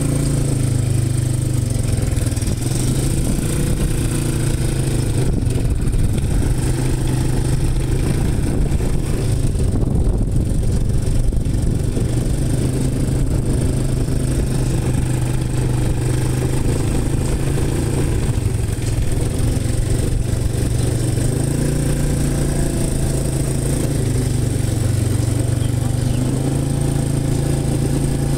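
An engine running steadily with a low, even hum, its speed easing off slightly for a while and picking up again near the end.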